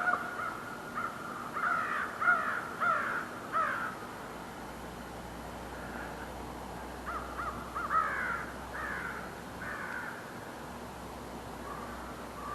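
American crows cawing: two bouts of about four caws each, a few seconds apart.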